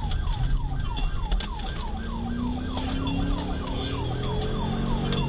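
Police car siren in rapid yelp mode, a quick falling wail repeating about four times a second, during a high-speed pursuit. Under it is the pursuing cruiser's engine and road noise, with an engine tone that rises slowly in the middle.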